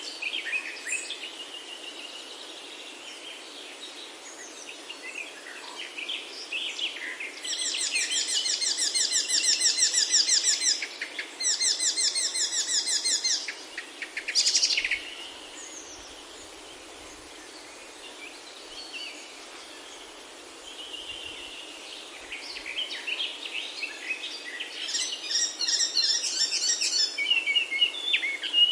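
Birds singing and chirping over a steady soft hiss, with two long runs of rapid repeated notes in the first half, a quieter stretch in the middle, then more chirping near the end.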